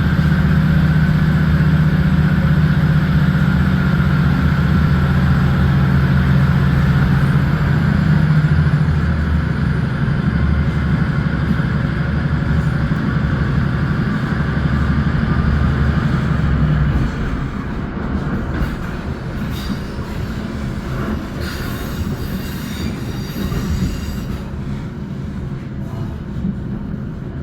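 Diesel multiple-unit train running, heard from on board: a steady engine drone over the rumble of the wheels on the rails. The sound gets quieter about two-thirds of the way through as the engine eases off, and a few clicks from the track come near the end.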